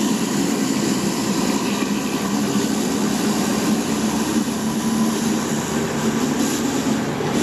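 Stihl RB 400 gas-engine pressure washer running steadily under load.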